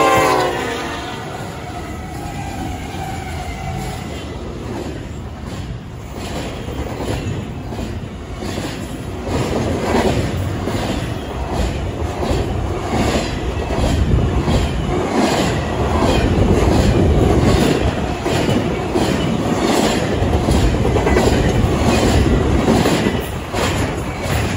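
Freight train passing close by: Union Pacific diesel locomotives go by first, then a long string of double-stack container well cars, their wheels clacking in a steady rhythm over rail joints, about one and a half clacks a second, over a continuous rumble that grows louder partway through.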